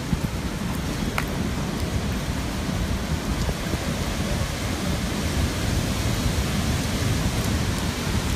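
Typhoon wind and rain: a steady, dense rushing noise with a heavy low rumble.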